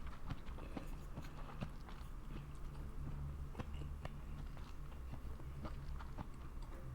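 A person chewing and biting food close to the microphone, many small wet clicks and smacks, over a low steady hum.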